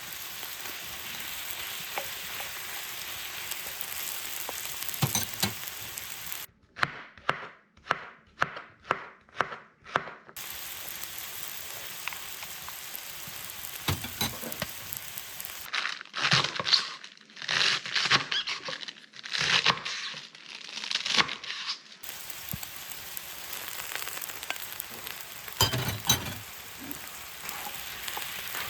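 Ingredients sizzling steadily as they are stir-fried on a cast-iron cauldron lid over a wood fire. Twice the sizzle drops out for a run of sharp chopping strokes on a cutting board: evenly, about two a second, the first time, and louder and irregular the second.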